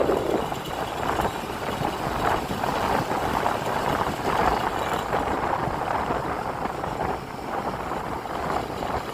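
Wind buffeting the microphone of a moving motor scooter, a rushing noise that swells and eases, with road and engine noise underneath.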